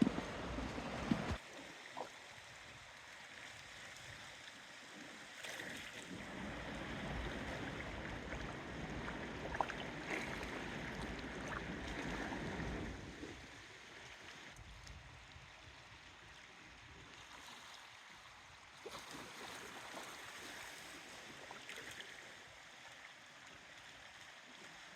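Seaside ambience of wind and water washing at the shore, swelling for several seconds in the middle and then settling lower.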